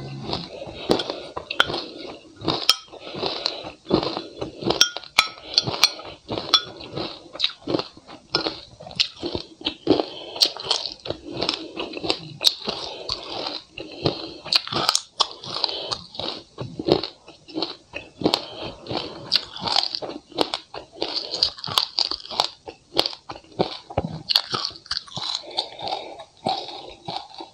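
Close-up crunching and chewing of mouthfuls of sesame seeds, a dense, irregular run of sharp crunches several times a second.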